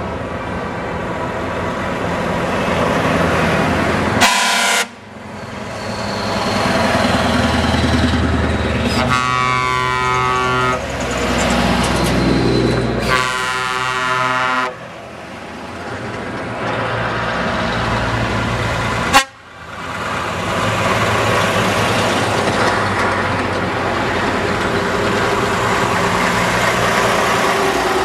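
Truck engines running, with repeated horn blasts: two longer, many-toned horn blasts in the middle and a shorter one earlier.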